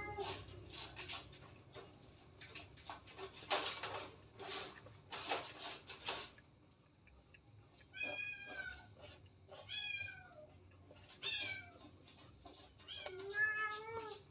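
A domestic cat meowing: five separate meows in the second half, each falling in pitch at the end, after some short bursts of scuffling noise.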